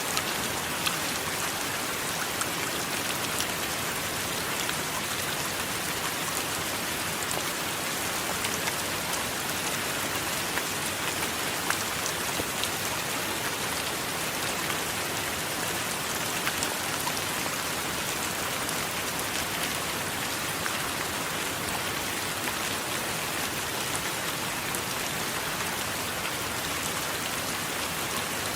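Steady heavy rainfall, an even hiss with scattered individual drops ticking.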